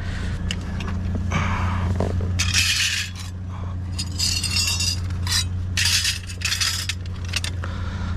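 Rummaging through trash in a dumpster: items scrape and clink against each other in several rustling spells. A steady low hum runs underneath.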